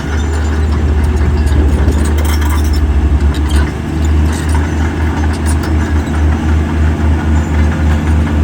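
Heavy diesel engine of an earthmoving machine running. Its low pulse quickens over the first three seconds or so, then settles into a slower, even beat of about two or three pulses a second.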